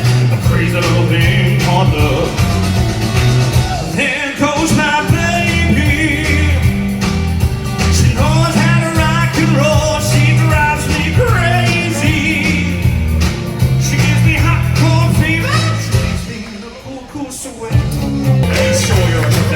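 Live singing with an up-tempo rock-and-roll-style instrumental backing and a steady pulsing bass line. The music drops away briefly near the end, then comes back in.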